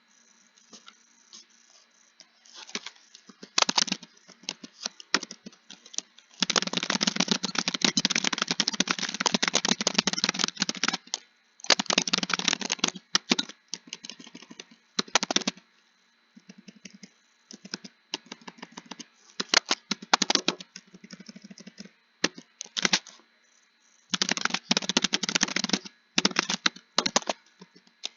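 Computer keyboard typing in bursts of rapid keystrokes separated by short pauses. The longest unbroken run comes from about six to eleven seconds in, after a quiet start of a couple of seconds.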